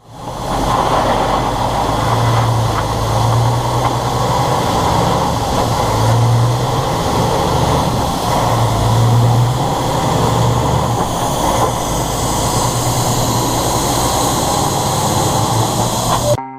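Diesel big-rig truck running on the highway: a steady drone of engine and road noise, with a low hum that swells a few times. It cuts off suddenly at the end.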